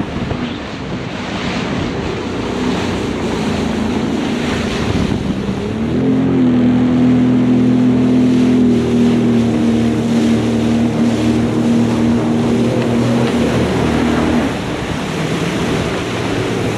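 Jet ski engine running at speed, its pitch rising about six seconds in and holding steady before dropping away near the end, over the rush of water spray and heavy wind on the microphone.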